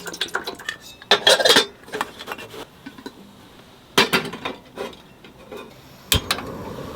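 Metal camp cookware clinking and clattering as a pot of frying oil is moved aside and a kettle or pot is set out, with louder clatter about a second in and again near four seconds. Just after six seconds a sharp click is followed by a steady hiss, which fits a camping gas stove being lit to boil water.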